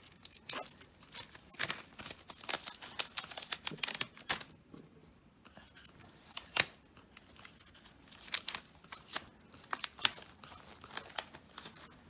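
The wrapping on a photobook being cut and torn open by hand, crinkling in irregular crackles, with one loud snap about six and a half seconds in.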